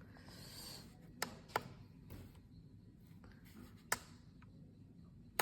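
Handling noise: a brief soft rustle, then four sharp clicks or knocks spread over a few seconds, the last the loudest. There is no motor sound.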